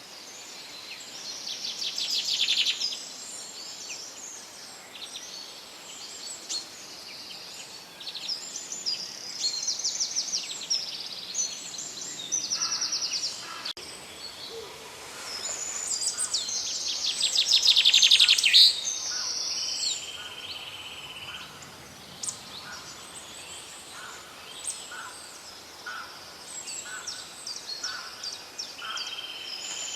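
Several songbirds singing at once, with overlapping phrases and fast trills that are loudest about two seconds in and again past the middle, over a faint steady hiss. In the second half one bird repeats short, lower chirps about once a second.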